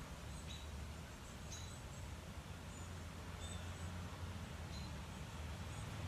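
Small birds chirping faintly in short, high notes about once a second, over a low steady background hum.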